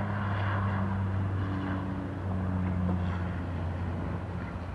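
Bombardier CRJ900 regional jet at takeoff power climbing away just after liftoff, a steady low engine drone that slowly fades toward the end.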